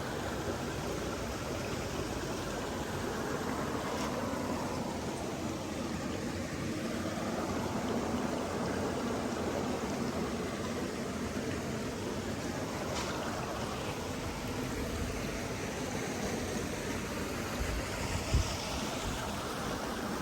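Steady rushing of flowing stream water. A brief low thump comes near the end.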